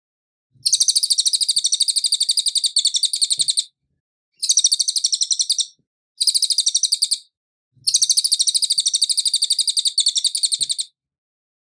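Cililin songbird singing four bursts of a rapid, high, buzzing trill of fast repeated notes. The first and last bursts last about three seconds each and the middle two about a second, with short silent gaps between them.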